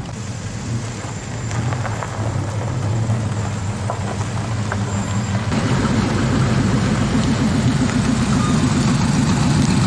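Car engine running, growing louder with a pulsing low rumble from about halfway through.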